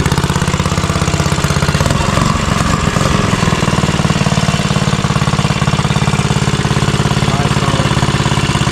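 Custom Motovox mini bike's small single-cylinder engine idling steadily with rapid, even firing pulses, turning briefly uneven about two seconds in before settling again.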